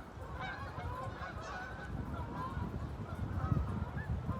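A flock of wild waterfowl calling, many short honking calls overlapping one another, over a low rumble.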